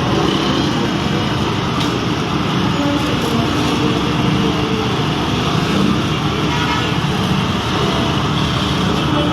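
Loud, steady engine noise from a running motor vehicle, with no distinct impacts.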